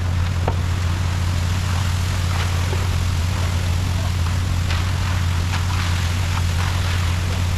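Concrete mixer truck engine running steadily with a low hum, with scattered light clicks and scrapes over it.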